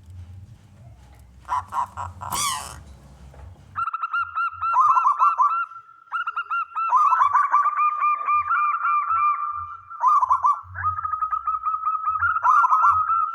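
A male zebra dove (perkutut) sings its rapid, repeated cooing song, beginning about four seconds in. Before that there is a low hum and a brief noise.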